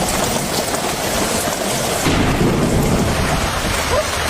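Storm sound effects: heavy rain and wind, with thunder rumbling about two seconds in.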